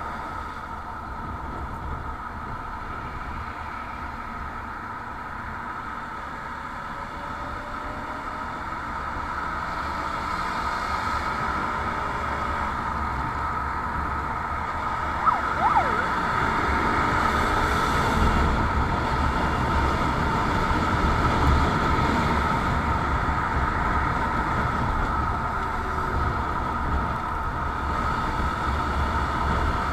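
Motorcycle on the move, with steady running noise and rumble that grow louder from about a third of the way in; a short whistle-like glide comes about halfway through.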